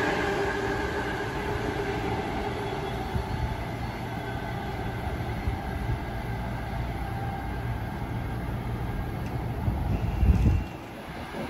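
Train running past on the tracks: a falling whine fades out in the first second, then a steady rumble of wheels on rail. About ten seconds in, a heavy low rumble swells and then cuts off suddenly.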